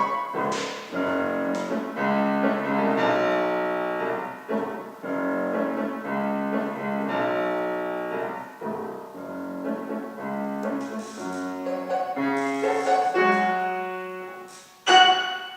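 Piano playing a simple melody with chords. It ends about fifteen seconds in on a loud final chord that dies away.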